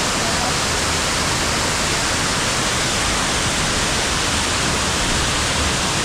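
Waterfall heard up close: a loud, steady rush of falling water that does not change.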